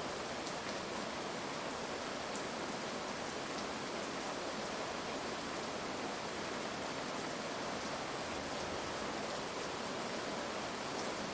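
Heavy, steady rain falling, an even hiss with a few faint drop ticks; no thunder in this stretch.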